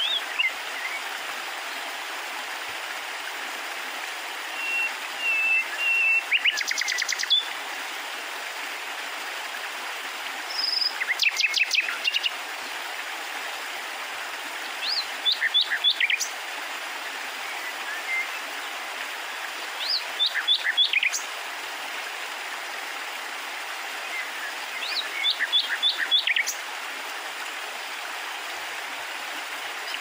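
A small bird singing short phrases of quick sweeping notes, one phrase every four or five seconds, over a steady even hiss.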